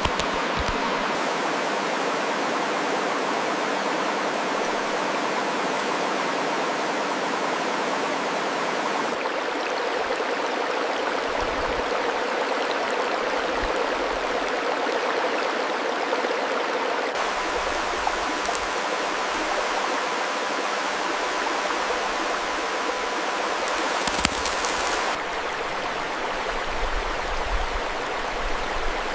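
Steady rushing of running water, like a stream. Its tone shifts abruptly a few times along the way.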